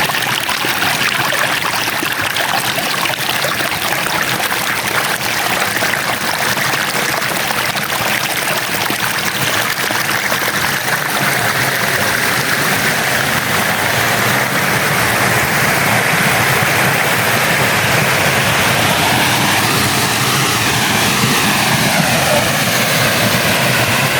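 Waterfall and rushing stream water, a loud, steady wash of noise.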